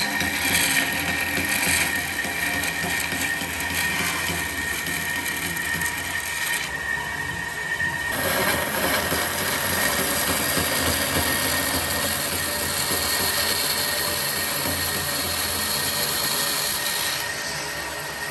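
Electric woodworking power tools running on wood, a steady motor noise with a high whine. The sound changes about eight seconds in to a louder, fuller noise, and drops back near the end.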